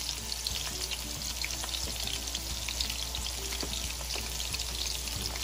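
Coconut-breaded thin pork chops shallow-frying in hot oil in a stainless steel skillet, sizzling steadily with a dense crackle of small pops.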